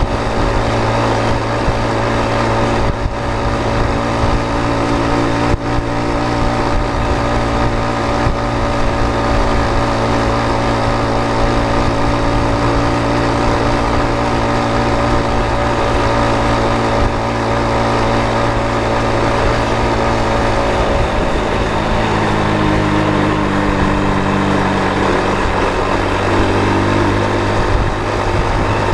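A vehicle engine running at a steady speed, its pitch shifting about 21 seconds in.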